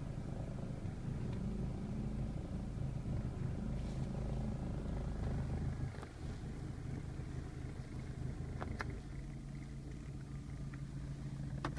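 Lada 2114 cabin heater blower with an eight-blade fan running, a steady hum whose pitch shifts about six seconds in. A few short clicks come near the end.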